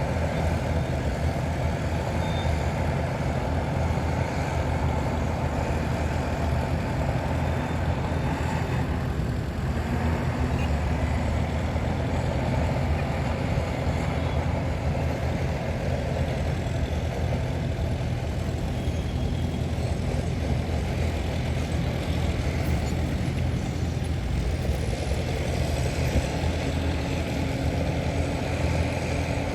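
Diesel engines of heavy earthmoving machinery running steadily, a continuous low drone.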